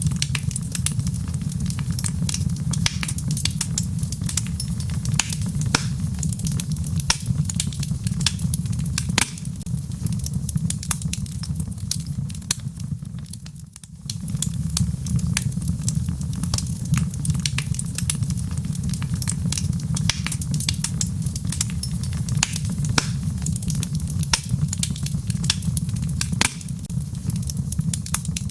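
Wood logs burning in a fireplace, crackling with frequent sharp pops over a low, steady rumble of the fire. The sound dips briefly about halfway through, then carries on as before.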